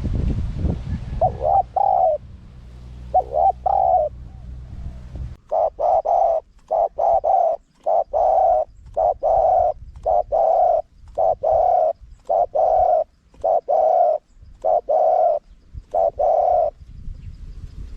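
Spotted dove cooing: a run of short, low coos, repeated about once a second in a steady song pattern. During the first few seconds a low rumble sits under the first scattered coos.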